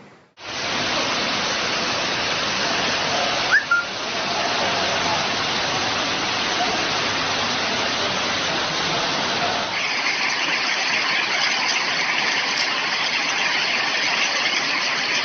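Storm water noise: a dense, steady rush of heavy rain or running floodwater. It changes abruptly about three and a half seconds in and again near ten seconds, with a brief squeak at the first change.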